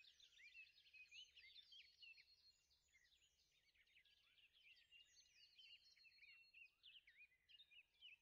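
Faint woodland birdsong: several small birds chirping and whistling in quick, overlapping phrases.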